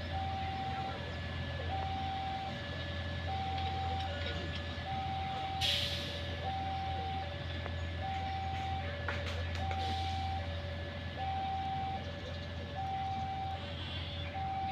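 Railway level-crossing warning alarm sounding a steady electronic two-note signal, a higher and a lower note alternating, each just under half a second long, over a steady low hum. A short hiss is heard about six seconds in.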